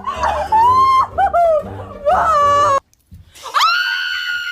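A pop song with a sung melody over a bass beat plays, then cuts off abruptly. About a second later a woman lets out a loud, very high-pitched scream that swoops up and is held steady.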